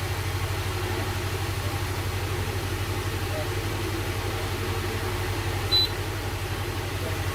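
A steady low machine hum with a fast, even pulse, and a short high beep about six seconds in.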